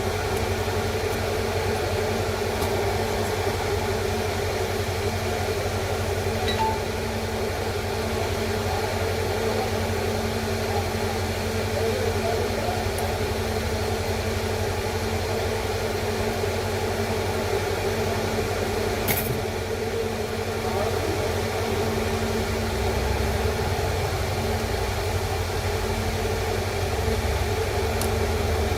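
Steady mechanical hum with a few even tones underneath, and a single brief click about nineteen seconds in.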